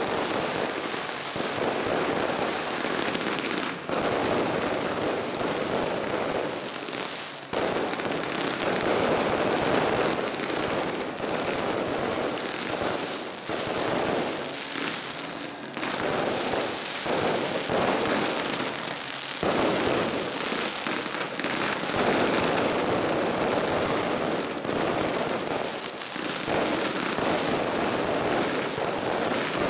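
Waterfall fireworks pouring sparks: a dense, continuous crackle and hiss that swells and eases every few seconds.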